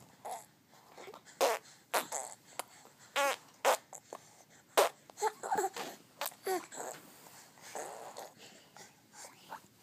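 A small child making playful vocal noises: a string of short breathy puffs and snorts mixed with brief high squeals, with gaps between them.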